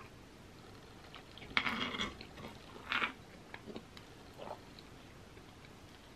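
Close-miked eating sounds: a mouthful of soft skillet cookie being chewed with wet mouth noises, loudest about a second and a half in, then a shorter burst and a few light clicks as a metal spoon scoops in a cast-iron skillet.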